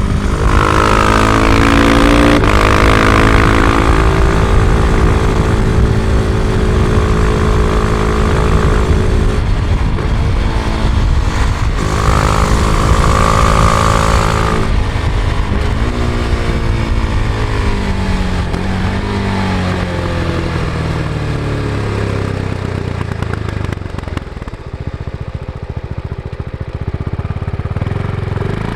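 Husqvarna Vitpilen 701's single-cylinder engine on its stock exhaust, heard onboard while riding. It pulls hard in the first half, rising in pitch with breaks where it drops back. It then slows and falls in pitch, going quieter toward the end before picking up again right at the end. Wind noise rises with speed around the middle.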